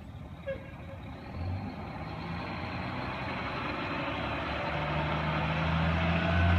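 A fire truck approaching, its engine and tyre noise growing steadily louder.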